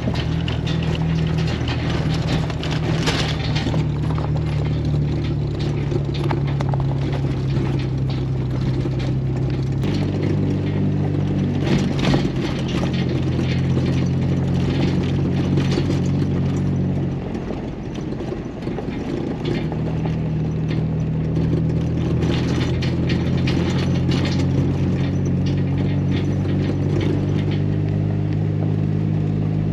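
Jeep Wrangler engine running steadily while driving on a gravel road, with scattered crunching and clicking from the tyres over the gravel. The engine note changes pitch about ten seconds in and eases off briefly past the halfway point before picking back up.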